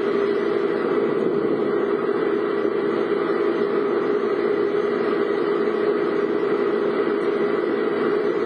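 A vehicle's engine running at a steady, even drone, heard from inside the car.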